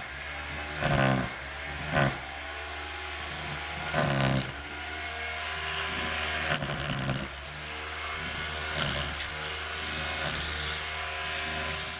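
Electric drill running steadily while it bores holes for the pigs' automatic drinkers. Brief loud pitched sounds, like a voice or an animal, cut in about a second, two seconds and four seconds in.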